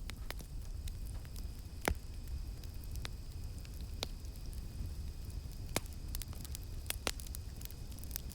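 Campfire crackling: irregular sharp pops over a low steady rumble of the flames, the loudest pop about two seconds in. A faint steady high insect drone from cicadas runs underneath.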